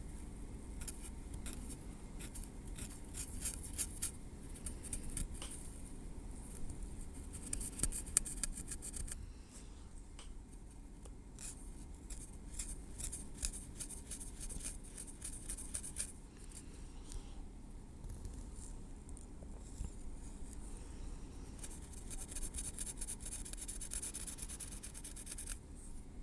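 Tweezers working over hair and scalp close to the microphone. The sound comes in groups of fine, rapid high clicks and crackles lasting a few seconds each, with quieter pauses between them.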